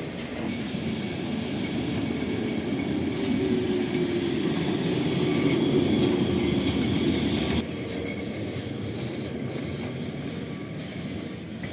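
An old yellow Lisbon city tram running on street rails: a steady rail rumble with a faint tone and scattered clicks that grows louder, then drops suddenly about two-thirds of the way through.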